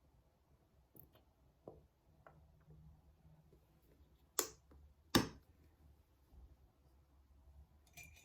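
Quiet room with a faint low hum, a few small scattered clicks, and two sharp taps about a second apart near the middle.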